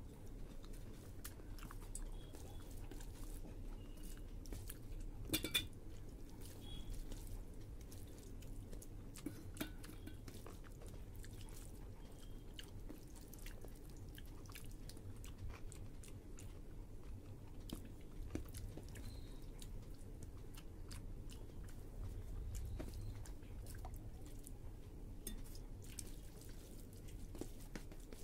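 Close-up eating sounds: chewing, with the soft clicks of fingers mixing rice and dal on a stainless steel plate scattered throughout. A sharper clink stands out about five seconds in.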